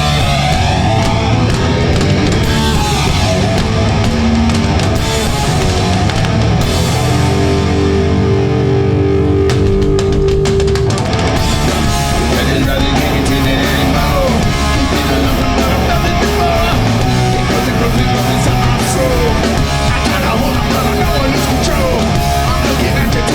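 Hardcore punk band playing live at full volume: distorted electric guitars, bass and drums. From about seven seconds in, a single note is held over a thinner backing for a few seconds, then the full band comes back in.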